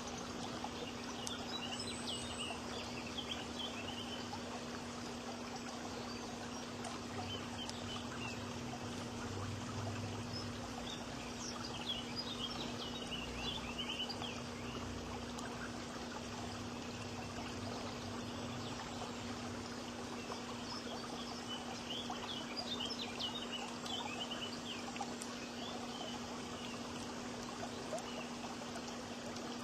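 Birds chirping in scattered bursts of short, high twittering, over a steady rushing noise like running water and a faint low hum.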